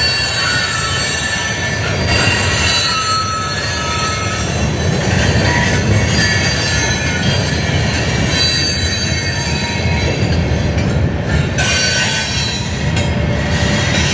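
Freight train cars rolling past: a steady low rumble, with short high-pitched wheel squeals coming and going.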